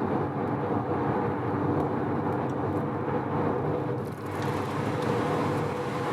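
Mazda RX-7 FD3S's twin-rotor 13B-REW rotary engine running steadily under way, with road noise, its loudness dipping briefly about four seconds in. The engine is freshly rebuilt after a blow-up and is being run in with gentle throttle.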